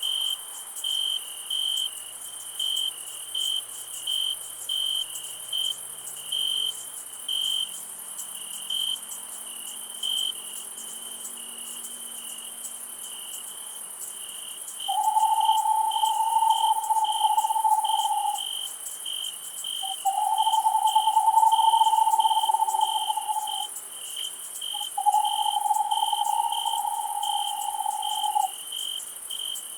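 Night crickets chirping in a steady rhythm, about twice a second, over a constant high insect hiss. From about halfway through, a lower long, even call sounds three times, each lasting about three seconds, louder than the crickets.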